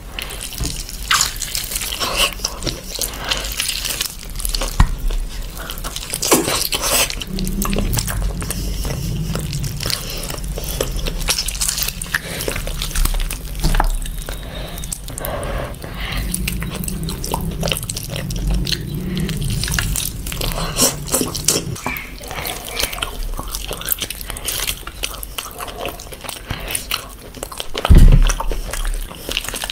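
Wet eating sounds of a man biting and chewing meat torn off a mutton leg bone: repeated sticky smacks and clicks of the mouth and lips. A louder thump comes near the end.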